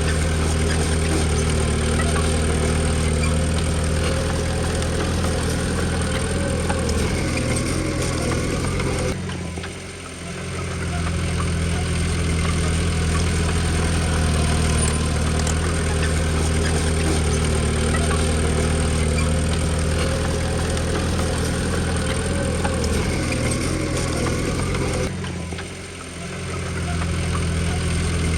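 Bulldozer diesel engine running steadily, with a low, even hum. It drops away briefly twice, about ten and twenty-six seconds in.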